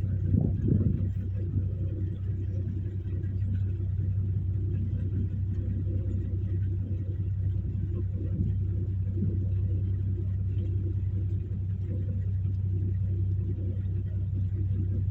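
Boat engine running steadily with a low, even drone, with a brief louder surge about half a second in.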